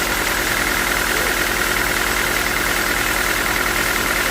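Sawmill engine running steadily at an even, unchanging speed.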